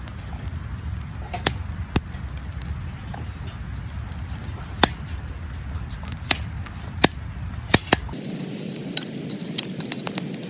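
Wood campfire crackling, with sharp pops and snaps at irregular intervals over a low rumble.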